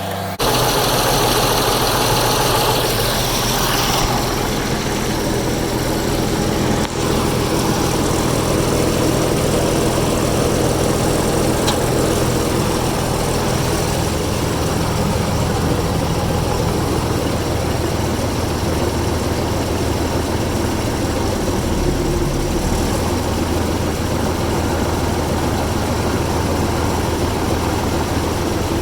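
Heavy-equipment diesel engine running steadily at idle.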